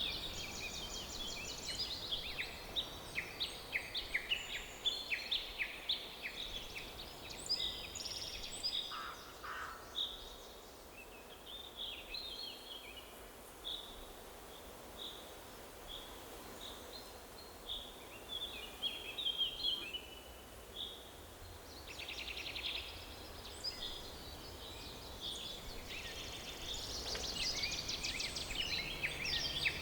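Several songbirds chirping and trilling over a faint steady hiss of forest ambience; the calls thin out in the middle and grow dense again near the end.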